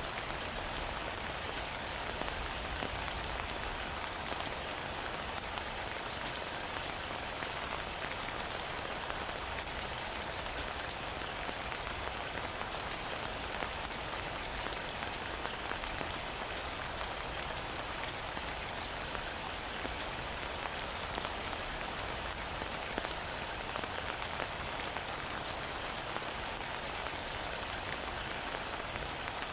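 Heavy rain falling steadily: a continuous even hiss with occasional faint drop taps.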